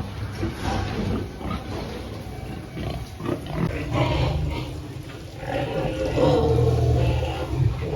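Pigs grunting in uneven, irregular calls, a little louder in the second half.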